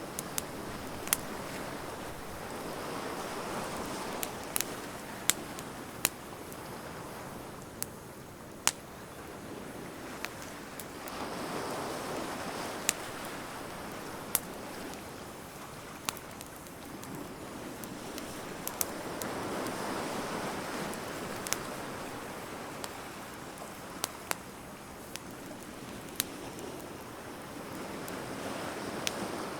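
Burning wood fire crackling, with sharp pops scattered irregularly, over surf washing in slow swells about every eight seconds.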